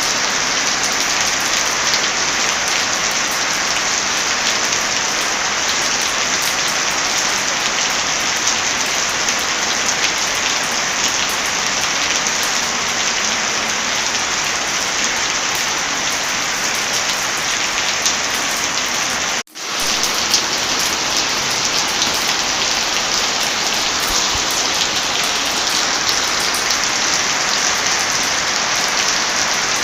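Heavy rain falling steadily, with light crackling of a wood fire scattered through it. The sound drops out briefly about two-thirds of the way through, then resumes.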